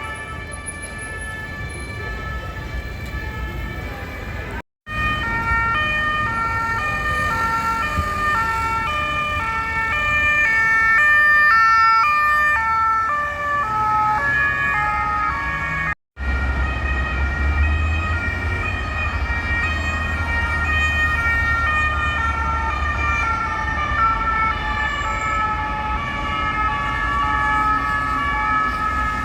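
Several French police two-tone sirens wailing at once, each alternating between two pitches and overlapping out of step, with a low vehicle engine rumble through the middle part. The sound cuts out briefly twice.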